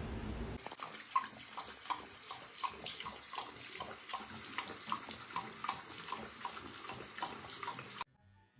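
Running water, like a tap, with a steady splashing and a regular beat about three times a second; it cuts off suddenly near the end.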